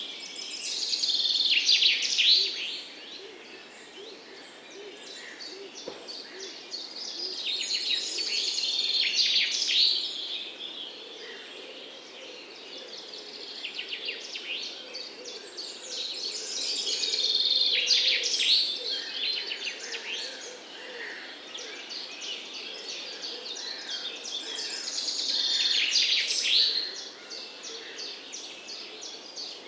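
Songbirds chirping and twittering. A louder burst of song swells up about every eight seconds, four times in all, over a steady background of smaller chirps.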